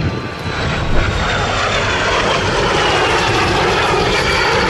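Jet aircraft flying past with a loud, steady engine rush, its high whine slowly falling in pitch as it goes by.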